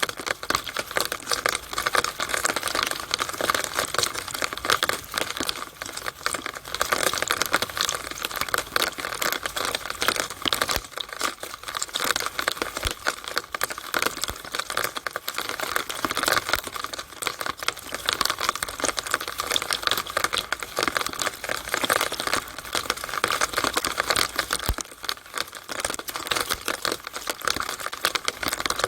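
Rainwater splashing and trickling through a rain downpipe, a steady dense crackle of falling drops and running water.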